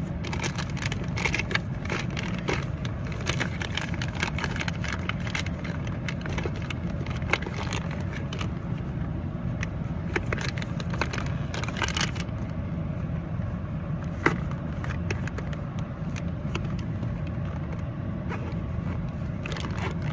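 Small objects being handled at close range: repeated clicks, rustles and scrapes, with a sharper click about seven seconds in and again about fourteen seconds in, over a steady low rumble of a vehicle or traffic.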